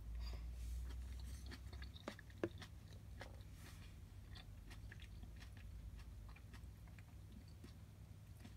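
Faint close-up chewing and mouth sounds of a person eating, with scattered small clicks and one sharper click about two and a half seconds in.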